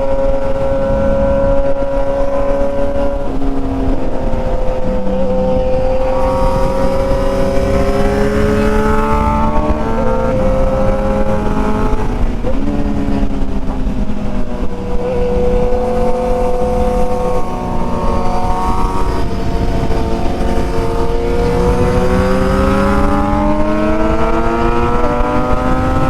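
Sport motorcycle engine on the move, holding a steady note, dropping in pitch and climbing again several times as the rider works the throttle and gears, with the last few seconds a long rising pull, over wind rush on the microphone.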